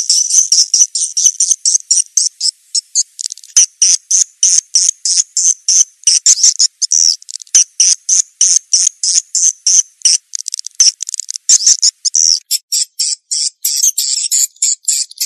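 Swiftlet lure call: rapid, evenly repeated high twittering chirps of swiftlets, about four or five a second, changing to a denser, choppier twitter about twelve seconds in.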